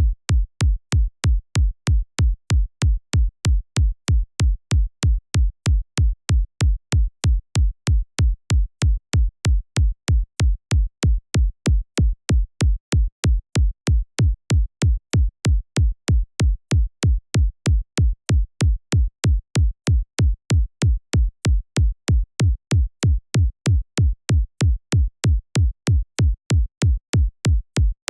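Synthesized kick drum looping in a steady four-on-the-floor pattern, about two hits a second, each a deep low thump with a short click on top. It starts suddenly from silence.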